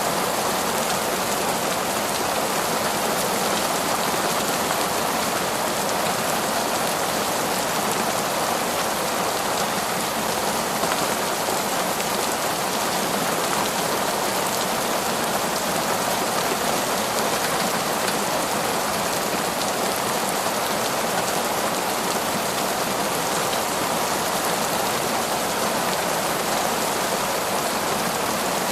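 Heavy, torrential rain falling on a forest, a dense steady downpour.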